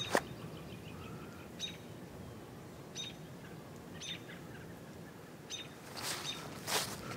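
Songbirds giving short, high chirps about once a second over a steady low rush of background noise, with a few brief crackling noises at the start and again near the end.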